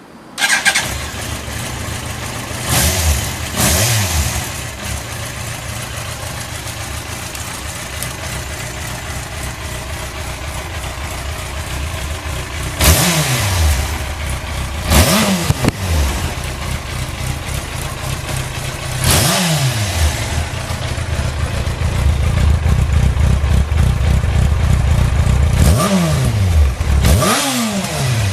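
Yamaha YZF-R1 (5PW) inline-four motorcycle engine and exhaust: it starts just after the beginning and settles into an idle, then is revved in several short throttle blips that rise and fall back to idle.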